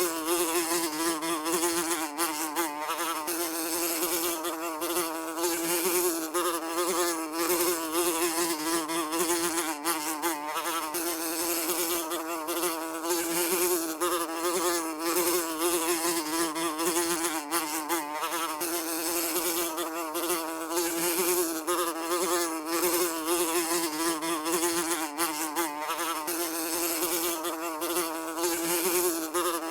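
Housefly buzzing continuously, its wingbeat hum holding near one pitch with a slight waver as it flies about.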